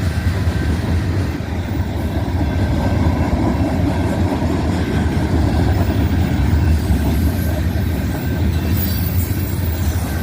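Freight train of tank cars and boxcars rolling past, a loud, steady rumble of wheels on the rails.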